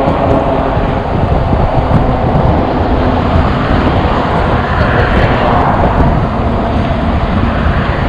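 Wind rushing over the microphone and tyre noise from a moving e-bike, a steady loud rush heaviest in the lows. A broader swell of noise rises and fades about five seconds in.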